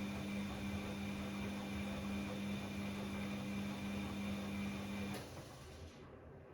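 Bosch Classixx 6 washing machine tumbling its drum during the heating phase of a 90°C cottons wash: a steady motor hum with the wash noise, which stops with a faint click about five seconds in as the drum pauses.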